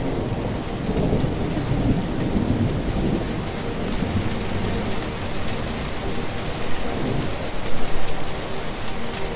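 Heavy rain with a long roll of thunder rumbling through it, growing loudest about eight seconds in.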